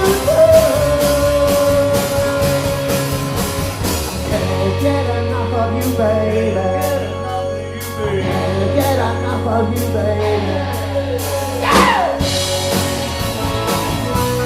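Live rock band playing an instrumental stretch of a song: steady drum beat, bass and electric guitar. Near the end a note falls quickly in pitch.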